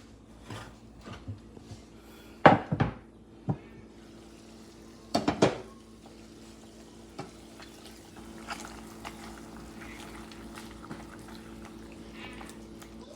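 Dishes and cutlery clattering in a kitchen, with two loud bursts of clatter about two and a half and five seconds in and a few lighter knocks after, over a steady low hum.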